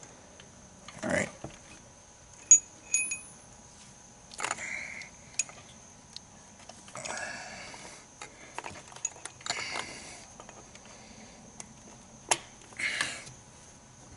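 Metal socket, extensions and swivel joint clinking and scraping down in a spark plug well as a new plug is hand-tightened: scattered single clicks and knocks with a few short rustles and scrapes.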